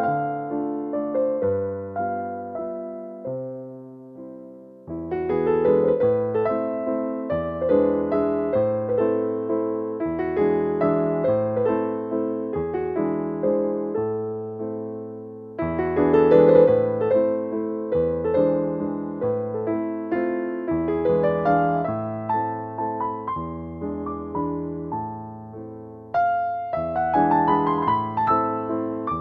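Background piano music: gentle melodic phrases of struck notes that ring and fade, with a fresh phrase starting about every ten seconds.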